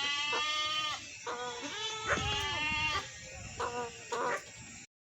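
Sheep bleating, a series of wavering calls, about five of them of varying length.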